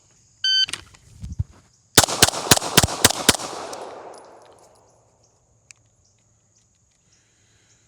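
A shot timer beeps once. About a second and a half later, a pistol fires six fast shots in under a second and a half, the echo trailing off for a couple of seconds afterwards.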